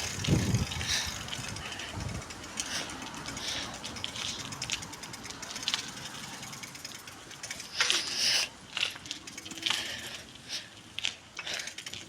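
Bicycle freewheel hub ticking rapidly as the bike coasts, over light rolling and rattling noise, with a few louder rattles about eight seconds in.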